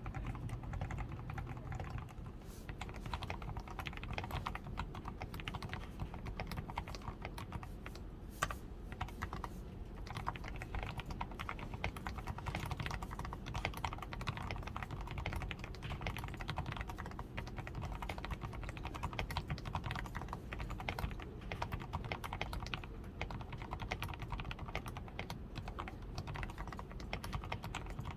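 Continuous typing on a DAREU A87 Pro mechanical keyboard: a steady, dense run of keystrokes with lubed switches, a tape-modded PCB and XDA keycaps. One keystroke, about eight seconds in, is sharper and louder than the rest.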